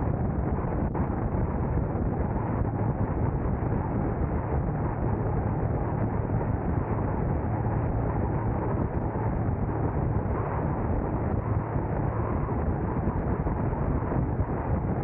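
Steady wind noise on the microphone over the low rumble of a car driving along a road, with no distinct events.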